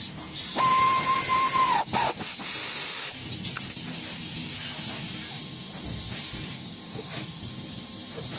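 A loud hiss with a steady whistling tone for about a second near the start, then a softer, steady hiss.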